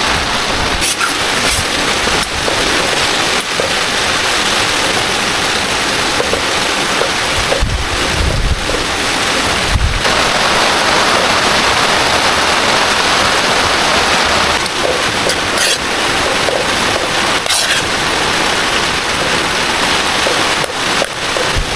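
Heavy rain pouring steadily, a dense even hiss, with a few faint drip-like ticks.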